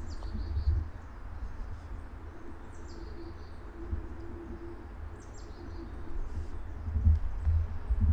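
A small songbird calling three times, about three seconds apart; each call is a short high note sliding down into a brief lower trill. Under it run low thuds of footsteps, heavier near the end.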